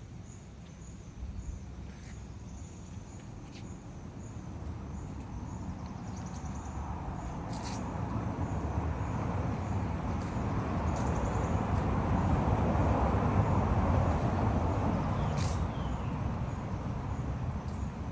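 A road vehicle approaching and passing, its rumble slowly swelling to a peak about two-thirds of the way through and then fading, over a steady high chirping of insects.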